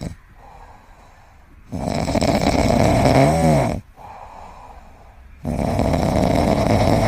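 A sleeping pet snoring: loud snores about every four seconds, each lasting about two seconds, with quieter breaths between them. The middle snore carries a brief wavering whistle.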